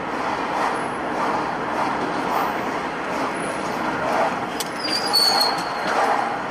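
Steady road and traffic noise, with a couple of brief high-pitched tones about five seconds in.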